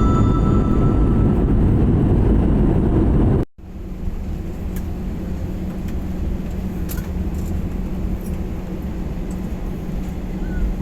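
Loud, steady rumbling ride noise with a few fading music notes early on. It cuts off suddenly and gives way to a quieter steady drone with a low hum, like the engine noise inside an airplane cabin in flight.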